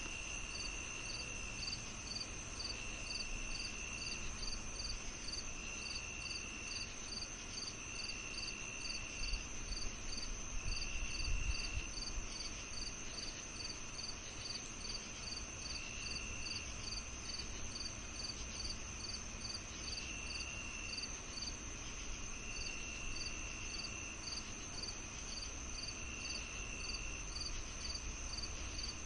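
Evening chorus of crickets and other insects: one steady high trill, a regular chirping about two to three times a second, and a lower trill coming in spells of about a second every couple of seconds. A brief low rumble about eleven seconds in.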